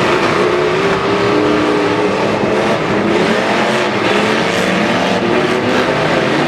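Demolition derby trucks' engines revving hard, several at once, their pitch rising and falling.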